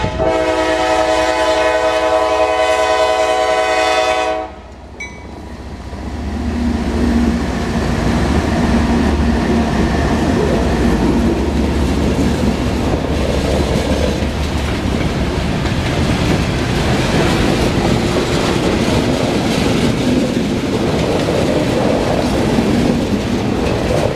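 Horn of a CSX GE ES44DC diesel locomotive sounding one long chord, cutting off about four and a half seconds in. Then the train passes close by: diesel engines running under load and freight cars rolling over the rails in a steady rumble.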